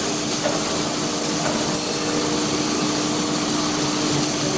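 Steady machine noise in a welding workshop: an even hiss with a constant low hum throughout.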